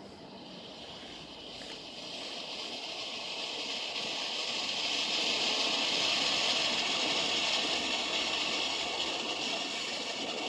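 Consumer firework fountain burning, a steady rushing hiss of spraying sparks that builds over the first few seconds and eases off near the end.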